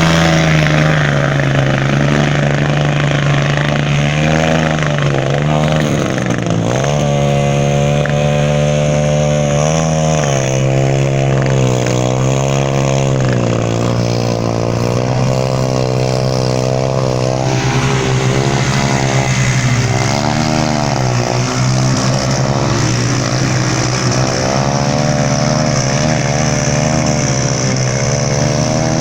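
Yamaha TT-R230 trail bike's single-cylinder four-stroke engine running continuously while ridden, its pitch rising and falling as the throttle is opened and closed, with several brief dips in revs.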